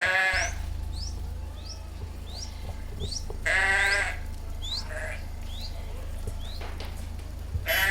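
Livestock bleating twice, a loud call at the start and another about three and a half seconds in.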